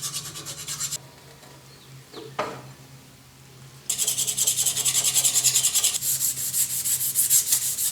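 A metal part being smoothed by hand with quick back-and-forth rubbing strokes. The strokes stop about a second in, a single knock comes in the pause, and the strokes start again near the four-second mark.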